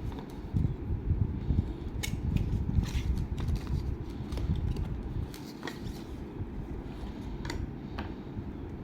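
Packaging of a 1/64-scale die-cast model car being handled and opened: scattered light clicks and taps of plastic and card, over a low rumble of handling noise.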